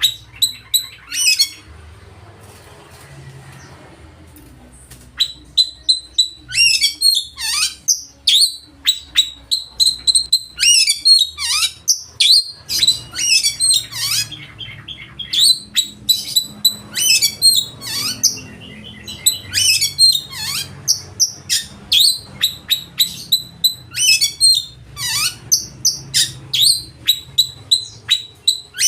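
Oriental magpie-robin (kacer) singing loudly: a rapid, varied song of sharp chirps, whistles and quick sweeping notes, its full repertoire. A couple of short calls, a few seconds' pause, then near-continuous song from about five seconds in.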